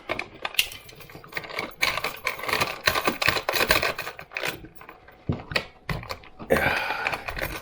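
Small metal chain jingling and clinking as it is handled, a run of irregular light clicks.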